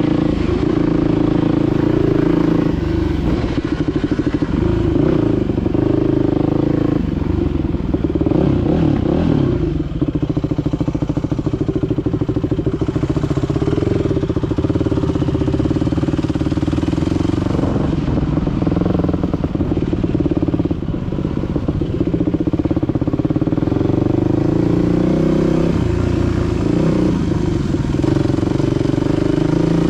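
Dirt bike engine running continuously while being ridden, its pitch rising and falling with throttle changes.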